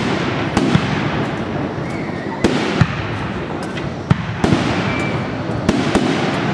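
Professional fireworks display: sharp bangs of aerial shells and salutes going off every half second to second, over a continuous dense crackle. Two short faint whistles come in about two and five seconds in.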